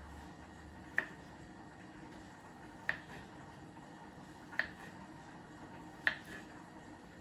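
Four sharp clicks spaced about one and a half to two seconds apart, each followed closely by a fainter tick.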